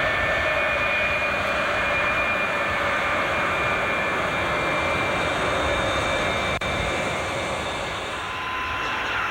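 Jet engines of a Boeing 707 airliner running, a steady rush with several high whining tones over it; the whine shifts slightly about eight seconds in.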